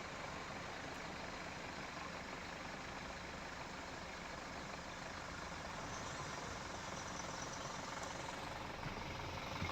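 Steady vehicle noise, engine and road rumble, even throughout with no distinct events.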